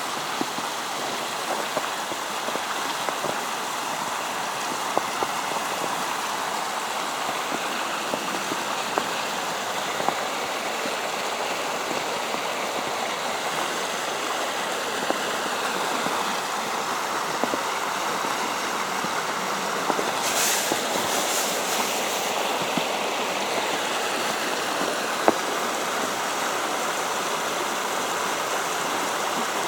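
Creek water flowing steadily in a snowy wood, with faint scattered ticks and a brief scuffing sound about two-thirds of the way through.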